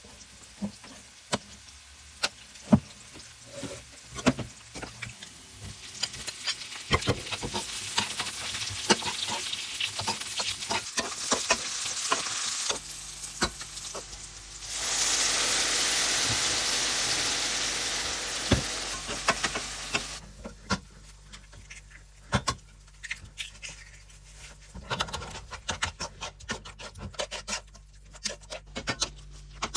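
Food frying in a pan: a sizzle that builds, is loudest about halfway through, then dies down, with many sharp clicks and knocks of a utensil working the pan.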